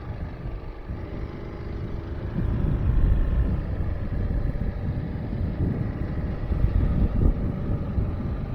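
Trailmaster MB200 mini bike's small single-cylinder engine running while riding, with wind rumbling on the microphone; it gets louder about three seconds in.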